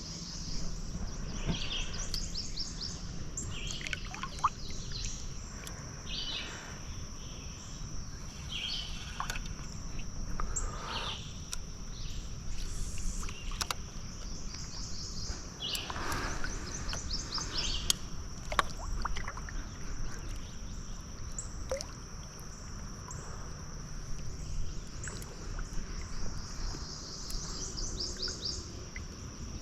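Riverside wilderness ambience: a steady high-pitched insect drone with many bird chirps and calls scattered over it, and a low rumble of water around a kayak underneath.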